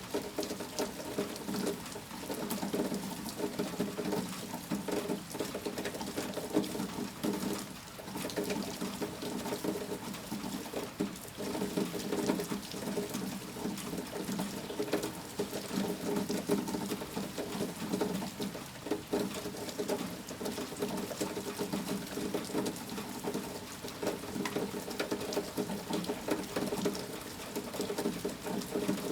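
Rain falling steadily, a dense, unbroken patter of drops.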